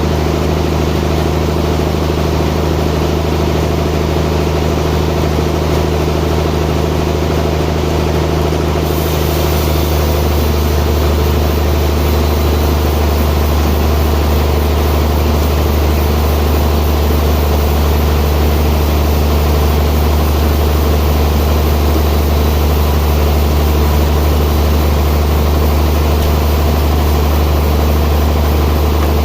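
Sawmill machinery running with a loud, steady hum. About nine seconds in the sound shifts and the hum gets fuller, then holds steady.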